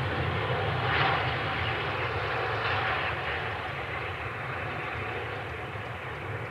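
Jet airliner engines running, a steady broad rumble and hiss that slowly fades.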